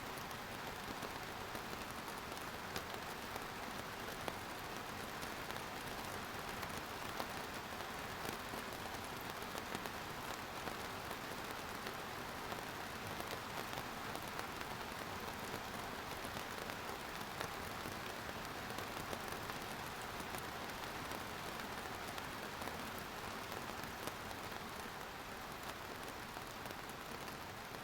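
Steady rain falling, an even hiss of many drops with scattered faint individual drop ticks.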